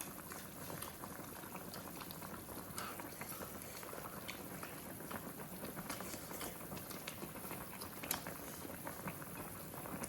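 Hotpot broth boiling in an electric hotpot, a steady bubbling with many small pops and clicks throughout.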